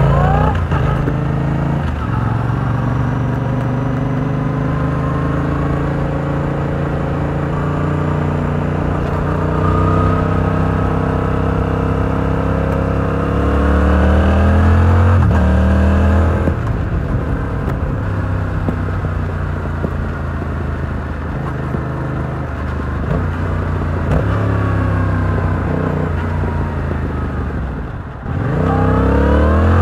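Yamaha R7's 689 cc parallel-twin engine through its stock exhaust, heard while riding. The revs climb gradually for the first half and drop sharply about halfway through. They then hold fairly steady before a quick dip and a steep rise near the end.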